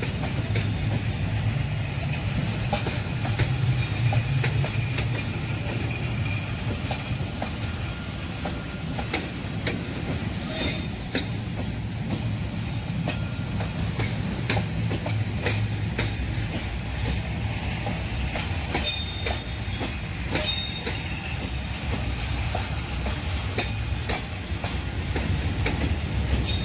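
Train rolling past: wheels clicking over rail joints again and again above a steady low rumble, with brief high wheel squeals.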